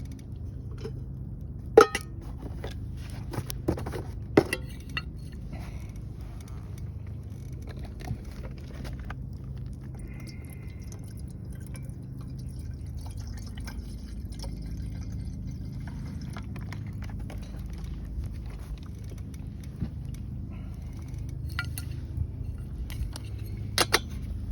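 Wood fire burning, crackling with scattered sharp pops, the loudest about two seconds in and near the end, over a steady low rumble.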